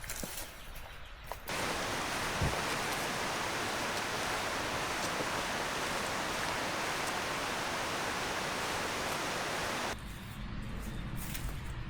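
A steady, even rushing noise that starts abruptly about a second and a half in and cuts off about two seconds before the end.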